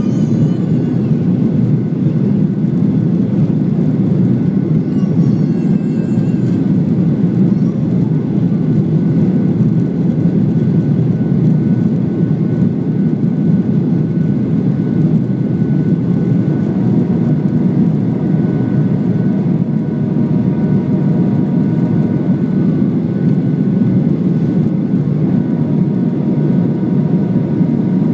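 Steady roar of jet engines and airflow inside the cabin of a Ryanair Boeing 737 in flight, with faint steady whining tones joining in about halfway through.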